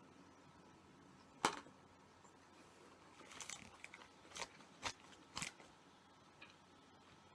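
Close-up eating sounds from a person working through a bunless cheeseburger. There is a sharp click about 1.5 s in, then a run of short crunchy bites and chewing from about 3 to 5.5 s.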